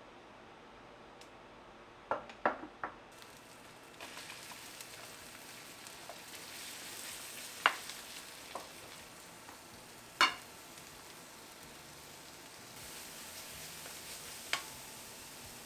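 Seaweed stems sizzling as they are stir-fried in a pan, the sizzle coming up about four seconds in, with a few sharp knocks of a utensil against the pan: a cluster of three about two seconds in and single ones later.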